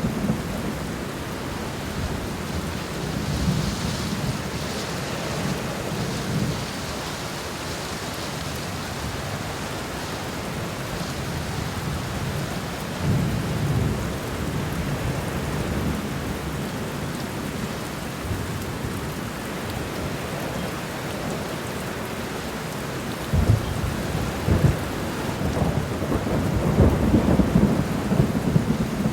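Steady rain falling on the ground in a garden, with low rolls of thunder swelling several times, strongest near the end.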